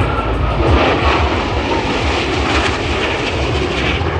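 An aircraft flying past overhead: a loud, steady rush of engine noise with a deep rumble, easing off slightly toward the end.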